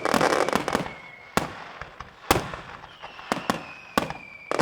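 Fireworks finale: sharp bangs of exploding shells about once a second, with a dense burst of crackling at the start. Whistling fireworks slide slowly down in pitch, one fading about a second in and another rising up about three seconds in.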